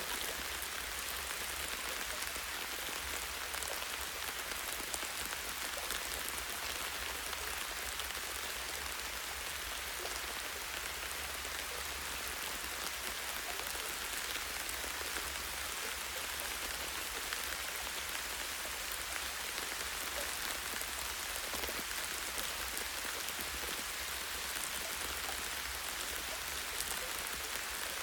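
Steady light rain, with many small drops pattering on the leaves and branches of a tree.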